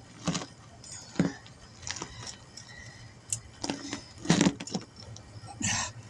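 Irregular metal clanks and knocks of tire tools working against the rim while a stiff, heavy-duty tire is forced off its bead.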